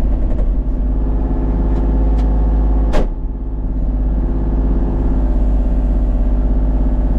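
An engine running steadily at a constant speed, with one sharp knock about three seconds in.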